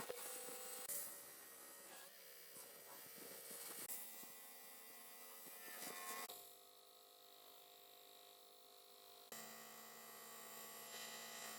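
Faint steady electrical hum made of several held tones, which changes character about six seconds in and again about nine seconds in.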